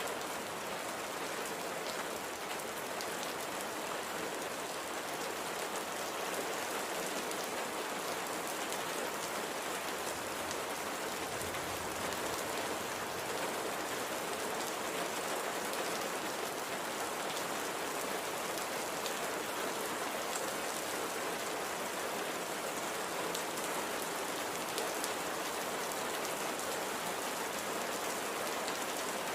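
Light, steady rain falling, with an even hiss of many fine raindrop patters on a surface.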